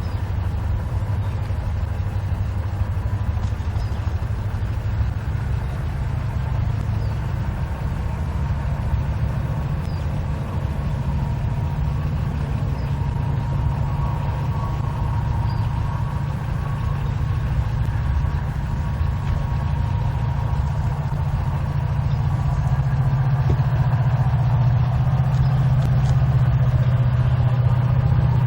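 Norfolk Southern diesel locomotive engine running steadily with a deep hum, growing a little louder near the end.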